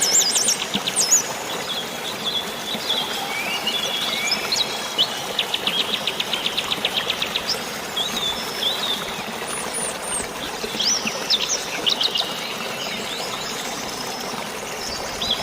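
Several songbirds chirping and whistling, including a rapid trill of about two and a half seconds, over a steady rush of flowing water.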